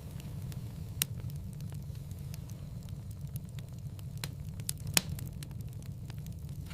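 Wood fire crackling in a fireplace: a steady low rumble of flames under frequent small crackles, with two louder pops, about a second in and near five seconds, the second the loudest.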